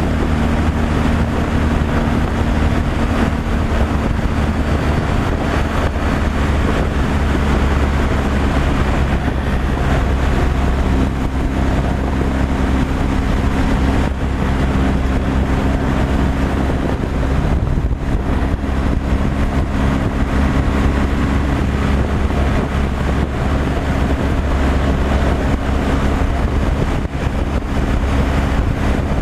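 Truck's diesel engine running steadily while driving at a constant speed, a continuous low drone with road and wind noise.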